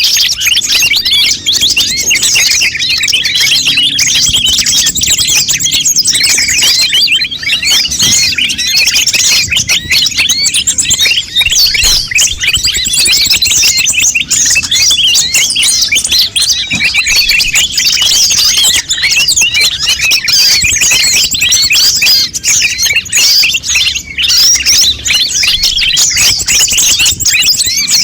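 Konin birds chirping noisily, a dense, unbroken stream of rapid high twitters and short pitch slides. It is the busy konin call used as a lure to draw konin birds in and to train caged ones to sing.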